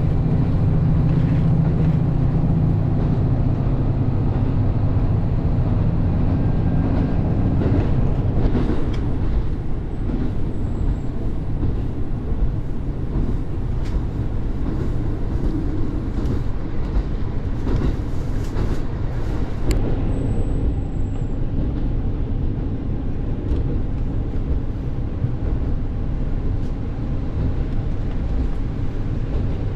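Train running: a steady rumbling ride noise, with a low engine drone that eases off about eight seconds in.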